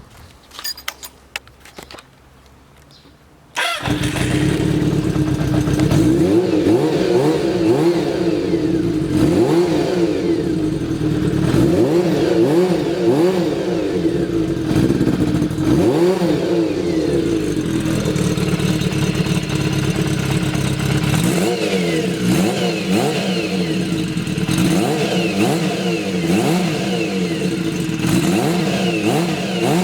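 Kawasaki Z400FX's air-cooled inline four-cylinder engine, freshly overhauled, starting suddenly about four seconds in after a few light clicks, then idling and being revved up and down in repeated blips.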